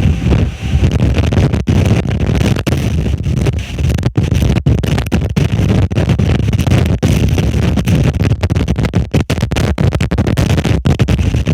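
Storm wind buffeting an outdoor microphone: a loud, continuous low rumble that distorts and keeps cutting out in brief dropouts.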